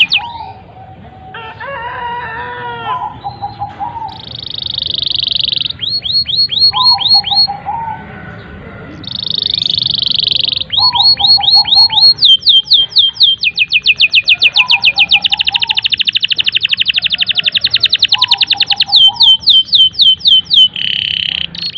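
Canary singing a long continuous song: fast trills of rapidly repeated falling notes, long buzzing rolls, and a lower warbling phrase that keeps coming back between the trills.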